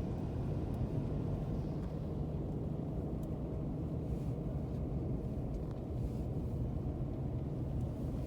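Steady low rumble of a car driving, heard from inside the cabin: engine and tyre noise at an even level.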